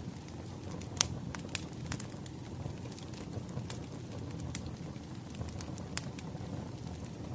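Wood fire crackling: irregular sharp pops and snaps over a steady low rumble of burning logs. The loudest pops come about a second in and again near six seconds.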